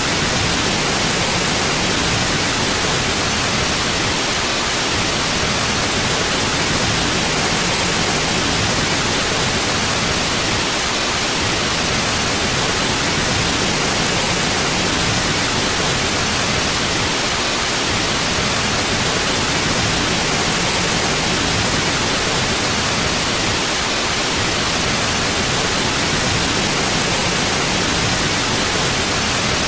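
Steady white noise: an even, unchanging hiss across the whole range, with no other sound.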